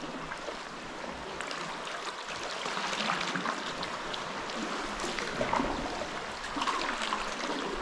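Seawater sloshing and splashing around a sea kayak in a light swell, with a few louder splashes about 3, 5½ and 7 seconds in.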